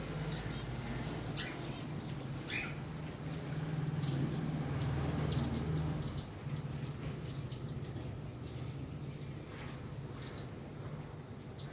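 Small birds chirping in short, scattered calls, over a low steady hum that grows louder for a couple of seconds in the middle.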